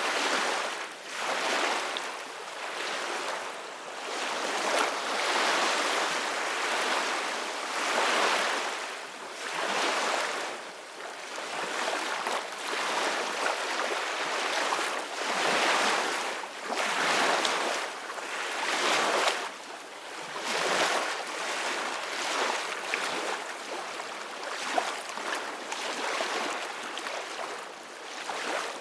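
Ocean waves washing onto a shore, the surf swelling and fading every two to three seconds.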